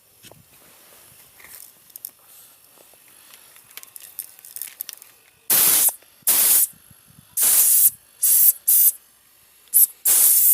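Short blasts of compressed air hissing from the hose of a homemade compressor built from a refrigerator compressor. There are about seven blasts, starting about halfway through, each lasting under half a second.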